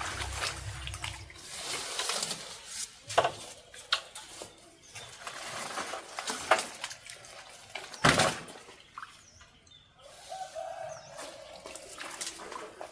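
Water splashing and sloshing in irregular bursts, with sharp knocks and handling noises.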